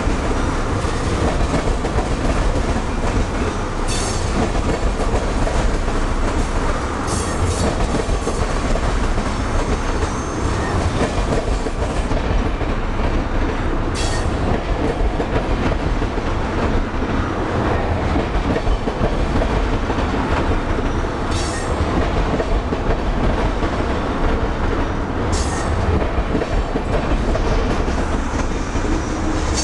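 Crude-oil tank cars of a freight train rolling past at close range: a steady rumble of steel wheels on rail with rhythmic clatter over the rail joints, and a few brief sharp high-pitched wheel noises.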